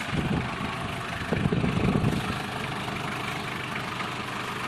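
A 1997 Nissan Vanette's 2.2-litre diesel engine idling steadily, with a couple of brief louder noises in the first two seconds.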